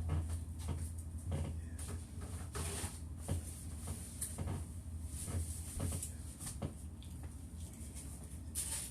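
Scattered light knocks and clicks of things being handled, over a steady low hum.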